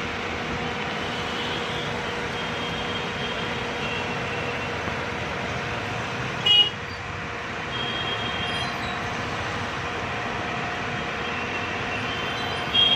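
Steady running noise of an idling car engine with its air conditioning on while the system is being charged with refrigerant, with faint high tones over it. A short, sharp, louder sound comes about halfway through.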